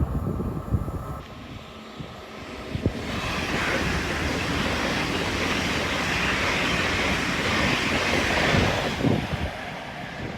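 A vehicle passing at speed: a rushing noise that builds about three seconds in, holds steady for several seconds and fades near the end, over a low rumble.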